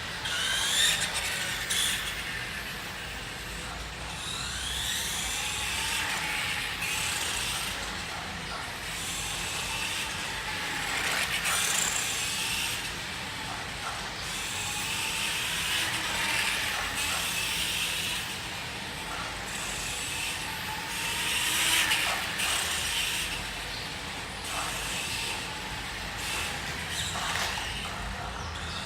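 Battery-powered RC motorcycle's electric motor and freshly repaired gearbox whining, the pitch rising and falling again and again as it speeds up and slows down.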